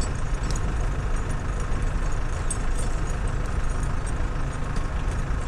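An engine running steadily at low speed, with a few faint light ticks over it.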